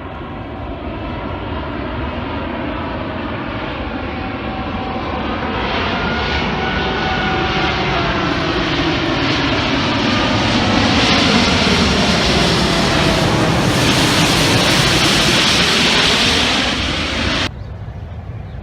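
A loud engine drone passing by, its tones bending in pitch as it grows steadily louder, then cutting off abruptly near the end.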